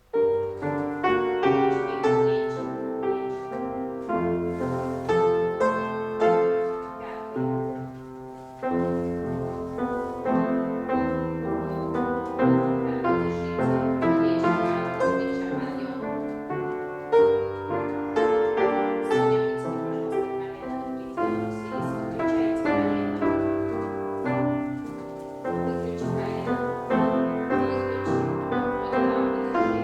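Classical piano music played at a steady pace, accompanying a ballet exercise.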